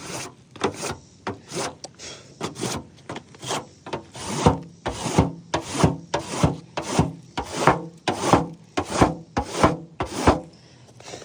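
Repeated gritty scraping strokes on a roof surface, about two a second, getting louder partway through.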